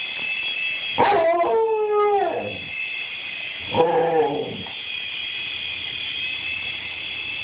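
A dog barking and howling: a drawn-out cry that falls in pitch about a second in, then a shorter cry about four seconds in. Under it runs a steady high whine, the toy helicopter's small electric motor.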